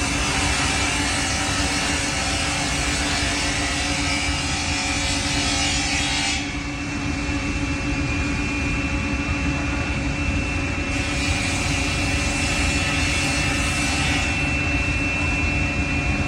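Automatic double-end wood cutting and milling machine running, its motors giving a steady hum and high whine under the hiss of cutting. The cutting noise eases about six seconds in and swells again from about eleven to fourteen seconds as stock passes the blades.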